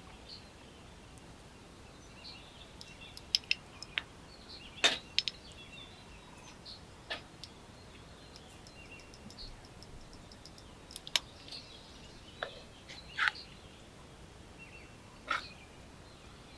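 Outdoor ambience: faint bird chirps over a steady low hiss, with scattered sharp clicks and knocks, the loudest about five seconds in.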